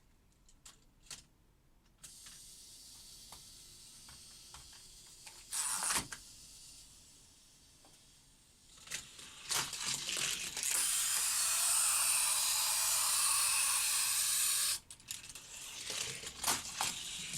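Hot Wheels die-cast car run through a plastic toy track with stunt pieces: scattered clicks and clacks, a loud clack about six seconds in, then a steady rushing whir for about four seconds that stops suddenly.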